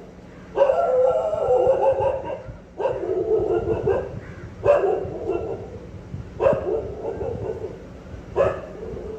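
An animal calling over and over, five calls about two seconds apart, each starting suddenly; the first two calls are longer and drawn out.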